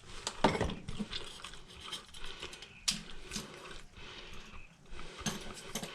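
Scattered clicks and knocks of metal parts being handled as a new dryer blower wheel is slid into place, with two sharper knocks, about half a second and about three seconds in.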